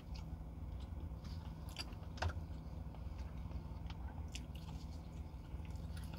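Close-up eating sounds of someone biting and chewing a crispy fried chicken wing: scattered wet smacks and crunches, with one louder crunch a little after two seconds in, over a steady low hum.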